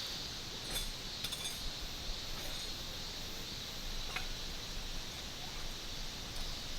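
Steady light rain hissing, with a few sharp drips or taps: one near the start, one a little after, and one about four seconds in.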